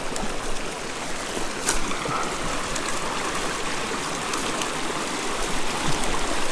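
Small mountain creek running steadily over rocks, a continuous rushing and trickling, with one sharp click about a second and a half in.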